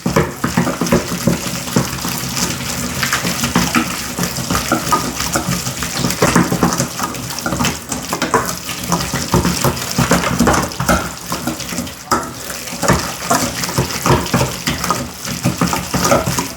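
Blender running, churning a wet marinade of chopped peppers, onions and olive oil: a steady motor hum under an irregular sloshing, splashing noise.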